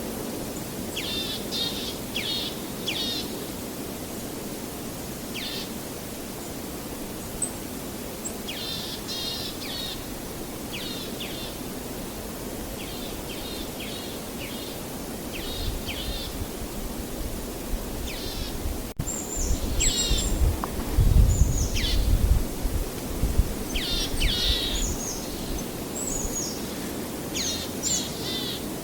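Songbirds chirping in short repeated phrases every second or two, over a steady outdoor noise bed. A low rumble swells in the second half and is the loudest sound there.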